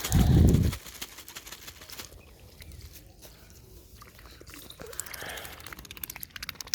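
Ducks pecking at scattered wheat grains, a steady patter of small clicks from their bills on the grain and ground. A loud low thump in the first second.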